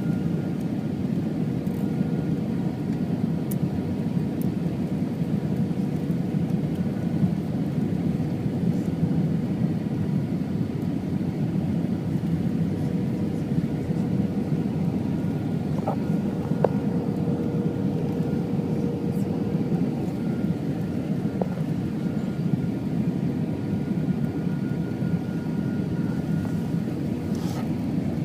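Jet airliner cabin noise: the steady rumble of the engines and rushing air, with a thin steady tone running through it.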